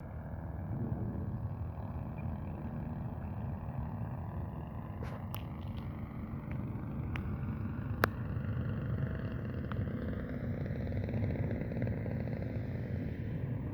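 Cessna 195's radial engine running steadily, its pitch slowly drifting up and down, with a few sharp clicks, the loudest about eight seconds in.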